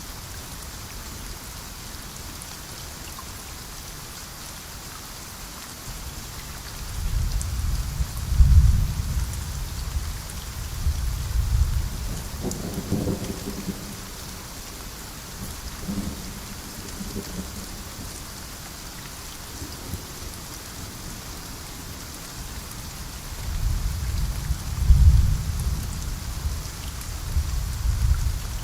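Steady heavy rain falling in a rainforest, with two long rolls of thunder: one starting about six seconds in and fading over several seconds, and another near the end.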